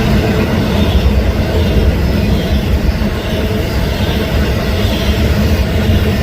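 Union Pacific intermodal freight train rolling past: a steady, loud rumble of steel wheels on the rails.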